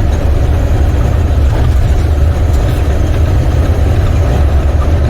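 Semi truck's diesel engine and road noise droning steadily inside the cab while driving, a loud, even low rumble.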